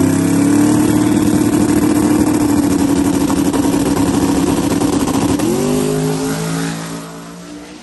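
Drag race car engine running hard at full throttle on a pass, holding a steady pitch. About five and a half seconds in the pitch shifts, and the sound then fades away.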